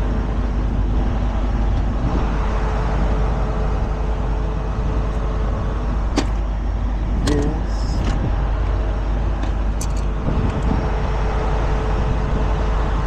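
A heavy truck's engine running steadily at idle, with a few light metallic clicks and knocks over it.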